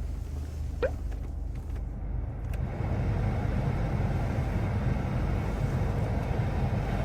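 Steady low rumble of a Chevrolet Trax's gasoline engine running, heard inside the cabin; the rumble grows a little louder and wider about two and a half seconds in. A few faint clicks sound between about one and two and a half seconds in.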